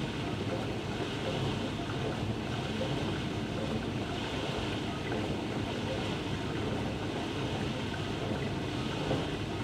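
Steady rushing ambience of ocean surf and wind, swelling and easing slowly every few seconds.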